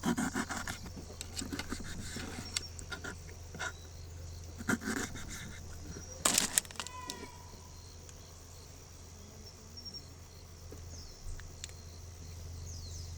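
Scattered sharp taps, clicks and rustles of hands preparing food for yakitori, most of them in the first half, over a steady high trill of insects.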